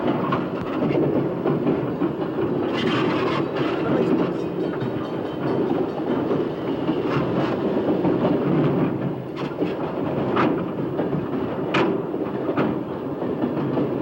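Freight train rolling along the rails, heard from aboard: a steady rumble and rattle of the cars, with a few sharp clanks now and then.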